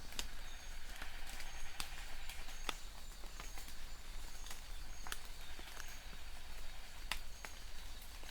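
Rain: a steady hiss with heavy drops landing as irregular sharp ticks. A short, high chirp repeats about once a second under it.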